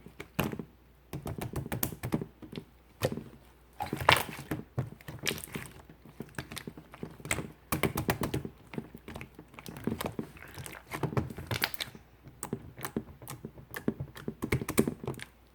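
Clear slime squished and pressed by hand, making clusters of sticky clicks and small air-pocket pops with short pauses between them.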